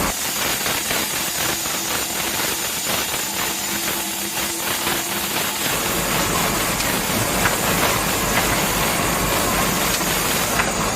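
Small electric motor of a homemade toy saw mill running, a steady dense rattle with many fine clicks.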